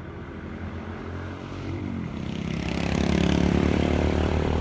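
A motor vehicle's engine on the road, growing louder as it approaches and is loudest in the second half, with tyre and wind hiss.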